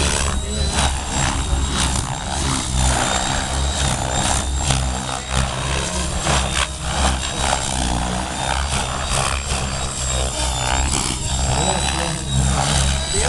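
Electric 700-size RC helicopter (KDS Innova 700 V2 with a Scorpion brushless motor) in flight: loud rotor-blade chop that swells and fades as it manoeuvres, over a steady high whine.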